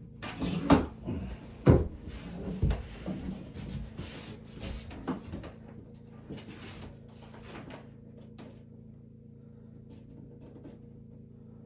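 A run of knocks and clunks of woodwork being handled, like cabinet doors or boards being moved and set down. The knocks are loudest in the first two seconds and die away after about six seconds, leaving a steady low hum.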